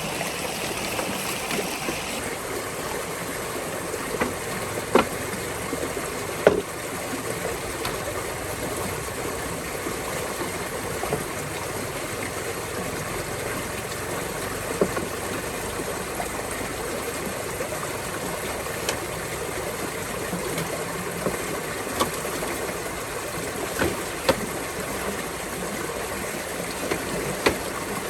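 Steady noise like flowing water, broken by a few short, sharp knocks.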